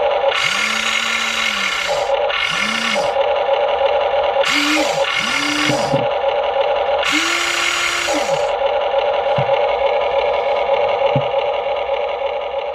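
Huina 1593 RC excavator's small electric gear motors whirring in about five short runs, each rising in pitch and then falling away, with two very brief blips later, over a steady hum.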